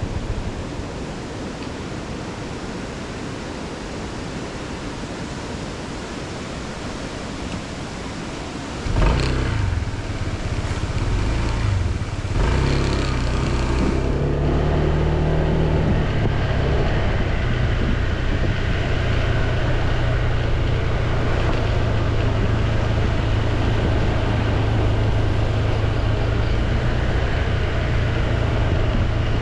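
Motorcycle engine and wind noise. At first there is only a steady rushing haze. About nine seconds in the engine comes up suddenly and loudly, surges again a few seconds later, then runs steadily.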